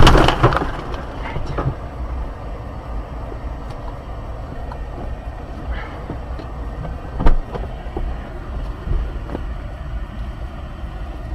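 Aftermath of a car crash sound effect: the loud crash fades in the first half second into a steady low rumble. Scattered small clicks and knocks run over the rumble, with one sharper knock about seven seconds in, and the sound cuts off suddenly at the end.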